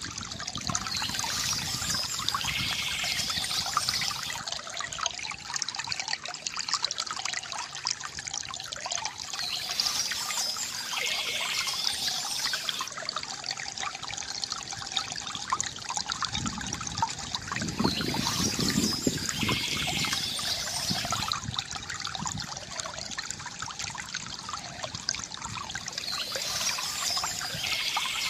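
Water from a bamboo fountain trickling and gurgling steadily, with a brighter splashing swell about every eight or nine seconds.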